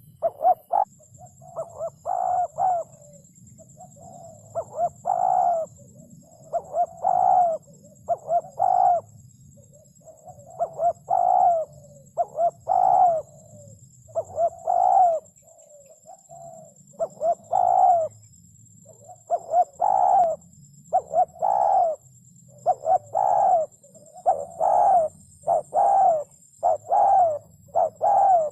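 Spotted dove cooing: phrase after phrase of a few low coos, about one phrase every second or two, the notes falling slightly in pitch. A faint steady high whine runs underneath.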